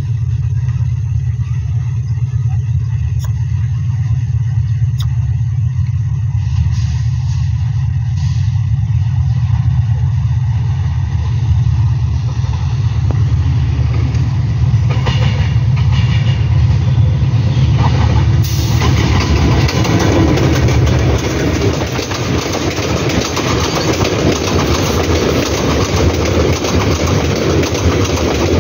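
Diesel locomotive hauling a container freight train: a steady low engine drone as it comes on, then from about two-thirds through the dense rumble and rattle of container wagons rolling past on the rails.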